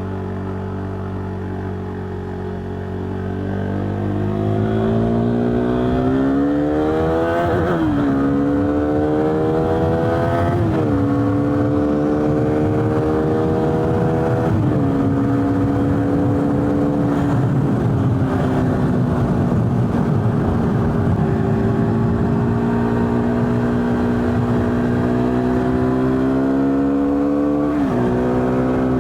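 KTM 390 Duke's single-cylinder four-stroke engine accelerating from low revs and shifting up through the gears, with quick pitch drops at each upshift about 8, 11 and 15 seconds in. It then cruises at steady revs, with one more rise and upshift near the end.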